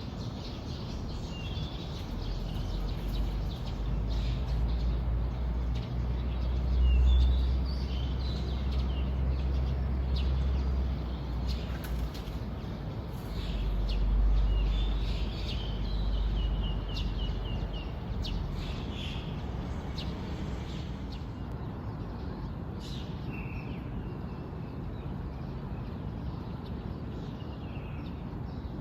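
Wild birds chirping and calling, with short scattered chirps and a quick trill of repeated notes about halfway through. Under them a low rumble swells twice in the first half and is the loudest sound.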